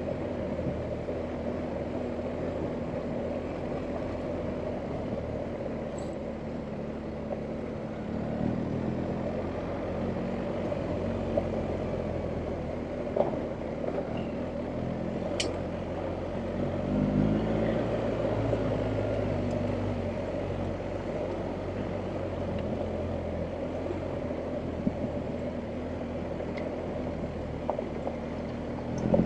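BMW R1250GS Adventure's boxer-twin engine running at low revs off-road, swelling twice as the rider opens the throttle, with a few sharp ticks.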